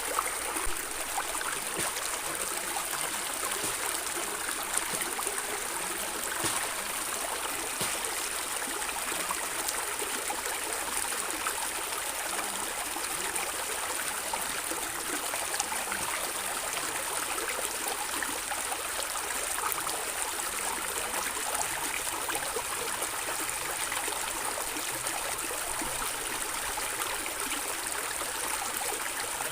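Water flowing and gurgling over rocks in a stream, a steady rush with small splashes and trickles throughout.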